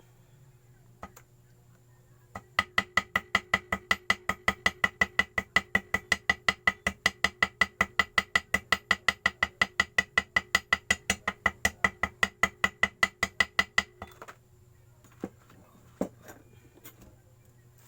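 Small hammer tapping rapidly and evenly on metal, each tap ringing, about four to five taps a second for some eleven seconds before stopping. This is the way gasket paper is tapped out against the edge of a motorcycle engine case to cut a homemade gasket. A couple of single knocks follow near the end.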